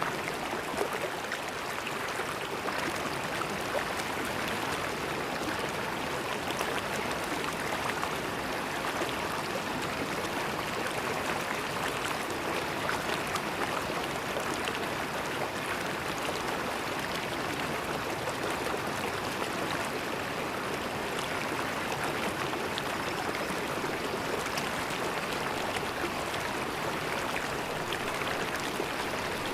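A river flowing steadily, its water rushing evenly over the whole stretch.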